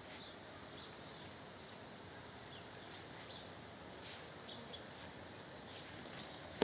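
Small birds giving faint, scattered short chirps over a steady background hiss.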